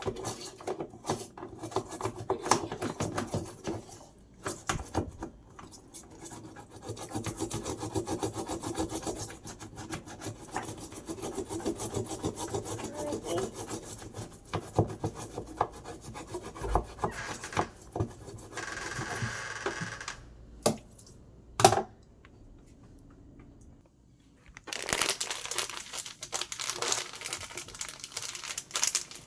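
Hand scrubbing and scraping while cleaning parts of a twin-tub washing machine: an uneven rubbing with many small clicks. A sharp knock comes about two-thirds of the way in, a short quiet gap follows, and denser crackly rubbing runs near the end.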